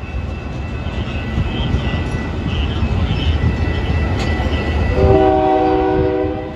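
Train passing with a low rumble that grows louder, and a multi-note air horn sounding once for about a second near the end.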